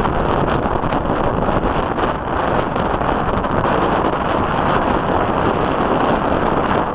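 Strong wind rushing and buffeting against the microphone in a loud, steady roar.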